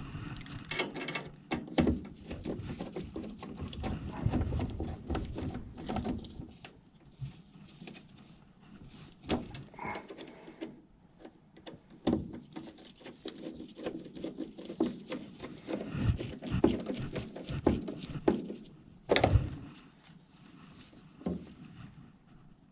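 Irregular clatter of hands-on work at a furnace: knocks, clicks and scrapes of tools and sheet-metal parts being handled, with a few louder knocks about 16 and 19 seconds in.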